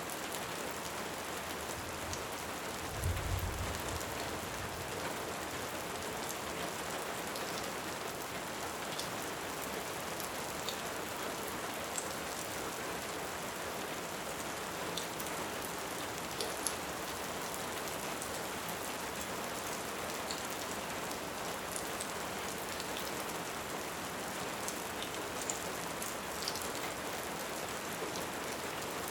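Steady heavy rain on a surface, with a fireplace crackling in sparse, scattered pops. One short low thud sounds about three seconds in.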